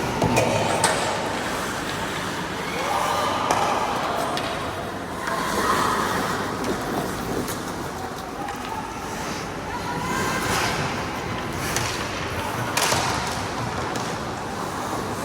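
Ice hockey play: a steady scraping hiss of skates on ice, broken by several sharp clacks and bangs of sticks, puck and boards, with players calling out.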